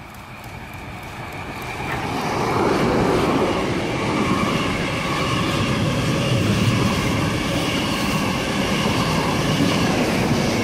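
An XPT diesel passenger train passing close by, growing louder over the first few seconds, then a steady rush of wheels and running gear on the rails.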